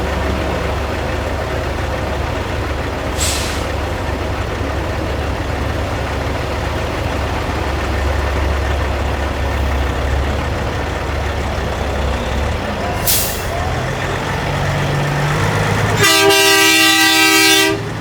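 Peterbilt semi trucks' diesel engines running with a steady low rumble. Two short air hisses are heard, one about three seconds in and one about thirteen seconds in. Near the end comes a loud air horn blast of several tones together, lasting under two seconds.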